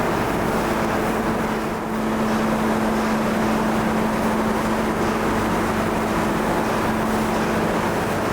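Steady machinery noise with a constant low hum, which grows stronger about two seconds in.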